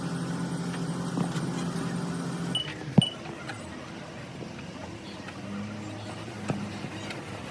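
Steady machine hum that cuts off about two and a half seconds in, followed by a single sharp knock and a few light clinks.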